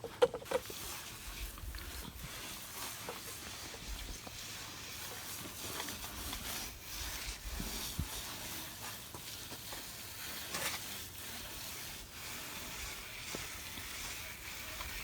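Hand pump-up garden sprayer spraying aluminum brightener onto the boat's hull, a steady hiss with a few low thumps.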